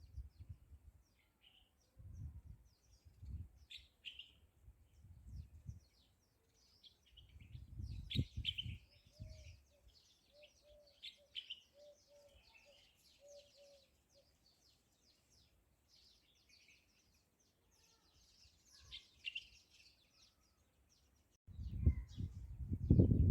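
Small birds chirping and twittering throughout, with a run of short, lower pitched call notes in the middle. Bursts of low rumble come and go, loudest near the end.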